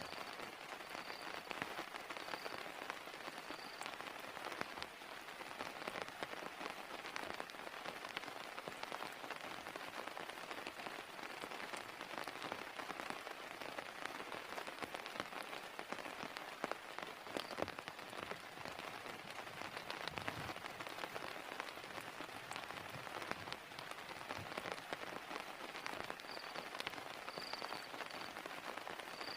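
Steady heavy rain falling, with many separate drops ticking close by. A few faint, short, high chirps come near the start and again near the end.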